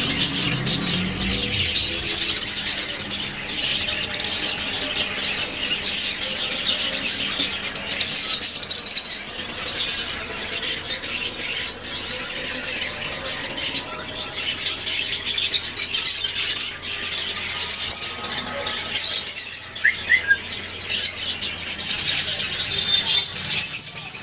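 Many small caged birds chirping and chattering at once in a dense, continuous twittering.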